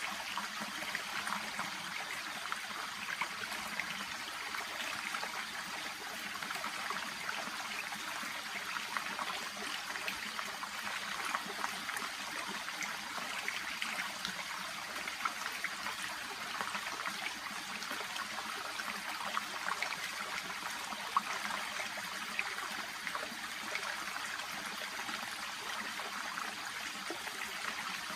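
Shallow brook babbling and trickling steadily over stones among water plants.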